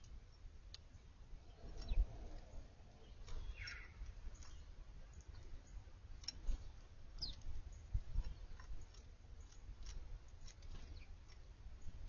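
Small backyard birds making scattered short, sharp clicks and chip-like ticks, with a couple of brief chirps, over a low rumble with a few soft thumps.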